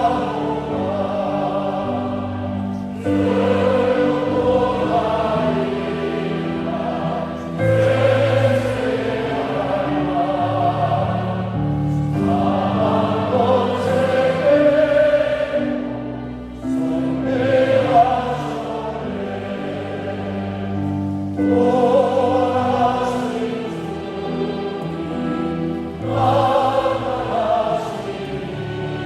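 A congregation singing a hymn together with instrumental accompaniment, in sung phrases of about four to five seconds each.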